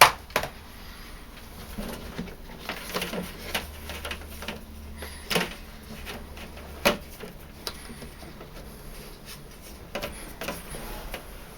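Scattered clicks and knocks from handling the parts of a tumble dryer's condensate pump, with a few sharper snaps at the very start, about five and a half seconds in and about seven seconds in, over a faint low hum that fades out about halfway through.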